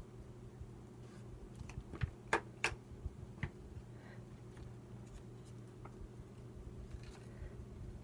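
A few light clicks and taps from handling craft materials at a table, two sharper ones close together about two and a half seconds in, over a steady low hum.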